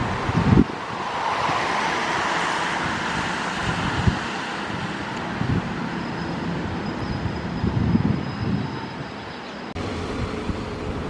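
A train running through the station: a steady rushing noise with wind thumping on the microphone, changing abruptly about ten seconds in.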